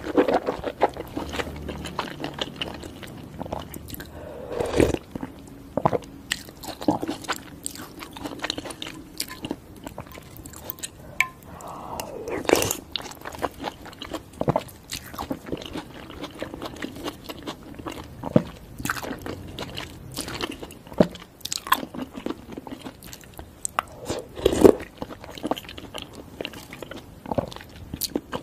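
Close-miked mukbang eating sounds: chewing and mouth smacks on noodles and soft-boiled eggs in spicy broth, irregular and wet, with scattered sharp clicks.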